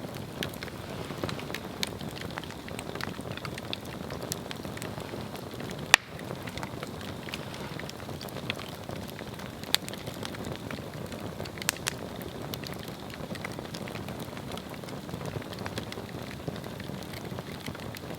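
Swedish torch log fire crackling: a steady low rush of burning with scattered sharp pops, the loudest about six seconds in.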